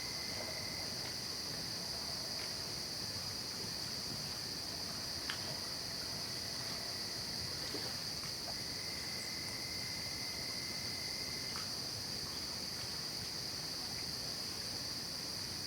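Night-time insect chorus of crickets: a steady, high-pitched trilling without a break, joined at times by a fainter, lower steady trill that comes and goes.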